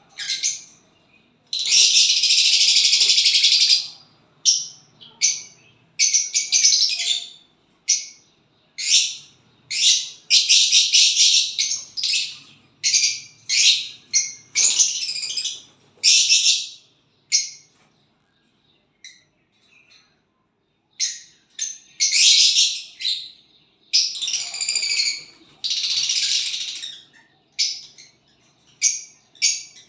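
A small bird singing: high-pitched chirping phrases, some brief and some running on for about two seconds, with short pauses between them and a quieter stretch just past the middle.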